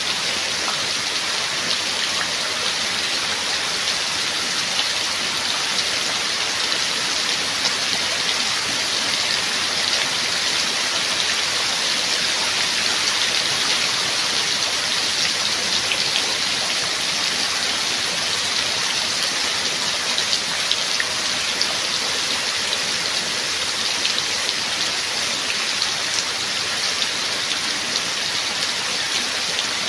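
Steady rain falling: an even, continuous hiss with individual drops ticking sharply now and then.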